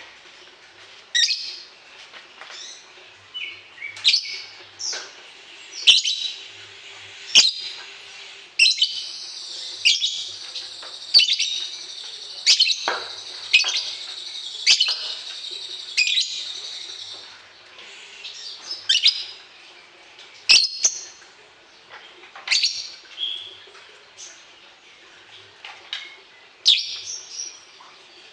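A songbird calling over and over in short, sharp, high chirps, which run into a dense, rapid stretch of song from about nine to seventeen seconds in.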